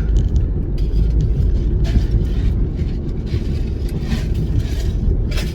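Cabin noise of a moving Chevrolet: a steady low road-and-engine rumble, with a few short swells of hiss.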